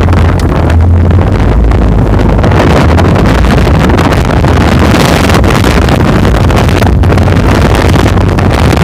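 Vehicle driving off-road: a steady low engine hum under loud, harsh rushing noise with frequent short knocks, the sound of wind and jolting on the microphone.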